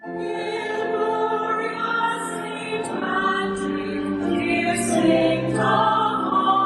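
A choir singing slowly in long held notes.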